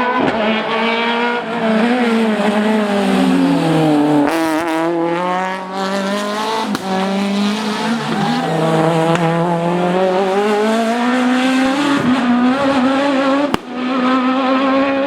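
Citroën Xsara rally car engine revving hard, its pitch climbing and falling again and again through gear changes and braking, with a brief lift of the throttle near the end.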